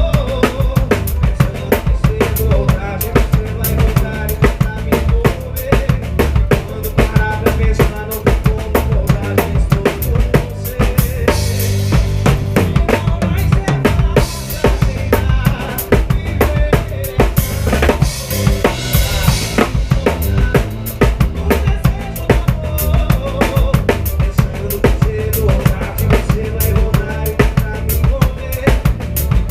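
Live band playing an instrumental passage, the drum kit loud and up front: steady kick drum, snare and rim shots over bass and held notes. A bright cymbal wash comes in twice, about a third of the way through and again past the middle.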